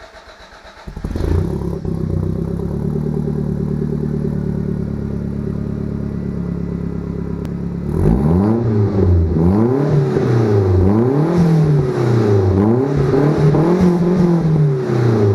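Toyota Celica All-Trac's turbocharged 3S-GTE four-cylinder is cranked on the starter, catches after about a second and idles steadily. From about halfway through it is revved up and down about five times. The exhaust runs with the muffler removed, leaving only a resonator and a high-flow cat.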